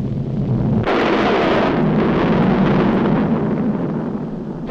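Cartoon sound effect of a volcano erupting: a heavy rumble, with a louder explosive blast about a second in, then rumbling on.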